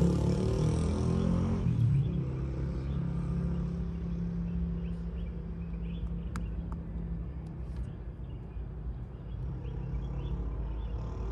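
A motor vehicle's engine is loudest about two seconds in and then fades to a steady low drone. Faint bird chirps come through over it.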